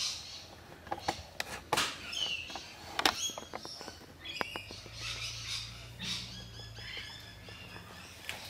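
Birds chirping, short high calls scattered through, with sharp clicks and knocks, the loudest about three seconds in.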